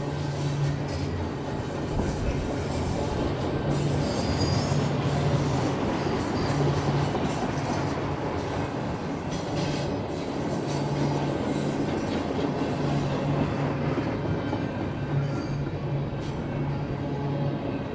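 Double-stack intermodal well cars rolling past: a steady rumble of steel wheels on rail.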